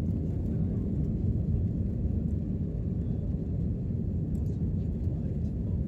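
Airliner cabin noise heard from inside the cabin: a steady low rumble of the jet engines and rushing air, with a few faint clicks.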